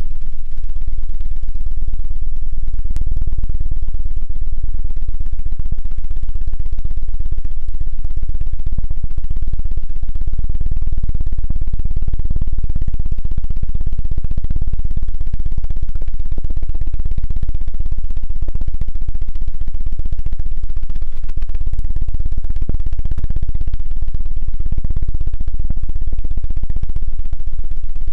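ASMR 'helicopter' ear-cleaning trigger: rapid, continuous fluttering and rubbing right at a binaural microphone's ear, a loud, deep, steady whirr like a helicopter's rotor.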